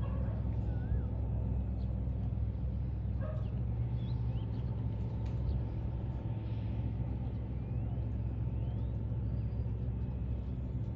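Outdoor ambience: a steady low rumble with a faint hum, and a few short, faint high chirps now and then.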